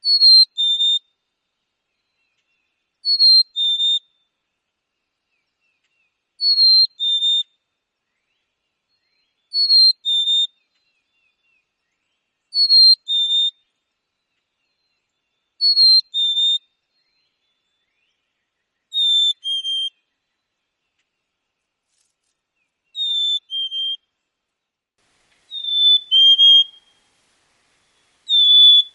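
Black-capped chickadee singing its whistled "fee-bee" song: a clear higher note followed by a lower one, repeated about every three seconds, the later songs a little lower in pitch.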